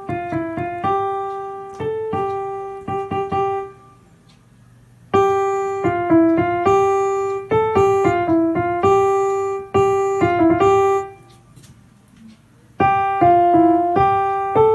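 Yamaha P-515 digital piano played through its built-in speakers: three short phrases of notes that keep returning to a G above middle C, the middle phrase played louder. The G notes set off a buzz from a faulty left speaker.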